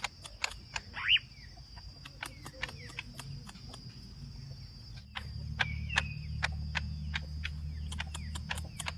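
Cucak ijo (green leafbird) singing a rapid string of sharp, clicking notes mixed with short rising and falling chirps. A steady high whine runs underneath, and a low hum comes in about halfway through.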